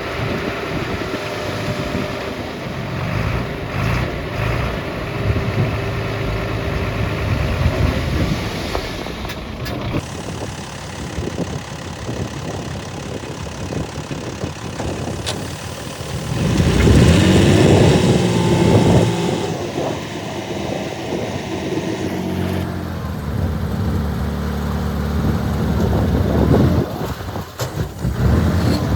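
Diesel engines of heavy earthmoving machinery, dump trucks and a bulldozer, running under load, with the pitch rising and falling as they rev, loudest a little past halfway. The sound changes abruptly about a third of the way in and again near three quarters, as if cut between takes.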